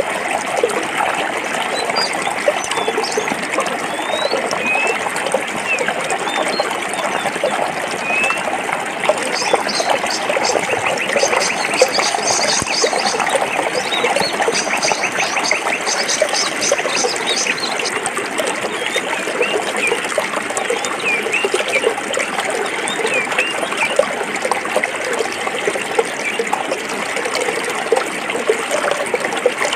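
Stream water flowing over rocks, a steady babbling, gurgling flow. Short high chirps are scattered through it, with a rapid high trill from about ten seconds in to about eighteen seconds.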